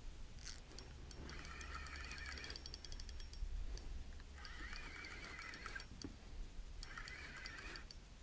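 Spinning reel being cranked in short bursts, four times with pauses between, as a jig is worked along the bottom for zander.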